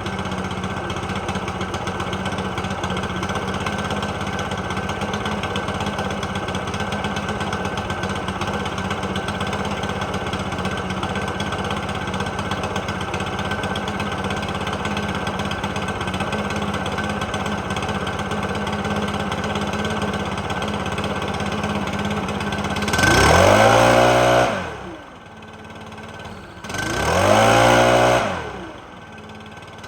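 Stihl BR600 backpack blower engine idling steadily. About three quarters of the way through, the throttle is opened and released twice: each time the pitch climbs and then falls back, and a third rev begins at the end. The engine is running again after repair and responds to the throttle.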